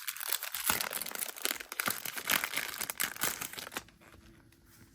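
Packaging crinkling and rustling as it is unwrapped and handled, a dense run of rapid crackles that stops about four seconds in.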